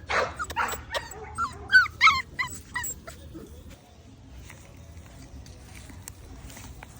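Pit bull puppy whimpering and yelping: a quick run of short, high cries that bend up and down, over the first three seconds.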